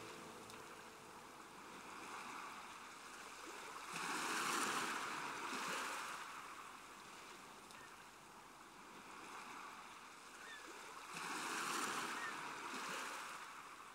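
Faint sound of ocean waves washing onto a shore, swelling into two louder surges of surf, about four seconds and about eleven seconds in.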